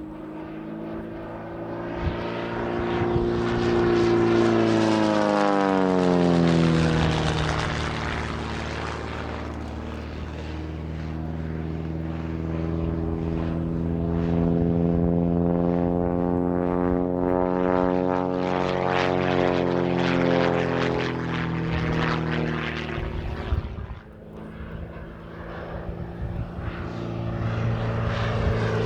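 Pitts Special aerobatic biplane's piston engine and propeller, its pitch climbing and then sliding down several times as it flies past through manoeuvres. About three quarters of the way through it dips sharply in level for a moment, then swells again.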